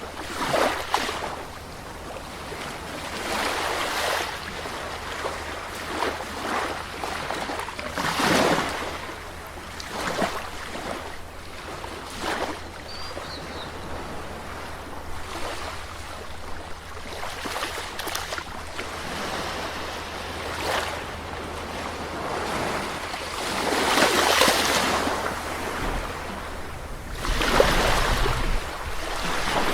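Gentle sea waves breaking and washing on a shore, one after another, with a few larger swells of surf, the strongest about 24 and 27 seconds in.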